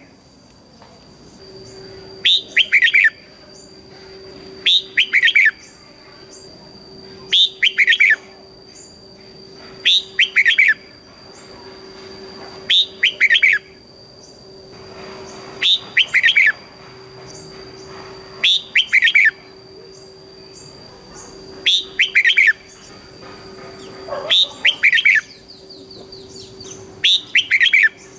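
Red-whiskered bulbul singing its loud, bubbling song phrase over and over, about once every two and a half seconds, each phrase often doubled in the 'double' (เบิ้ล) style prized by Thai bulbul keepers. A faint steady whine runs underneath.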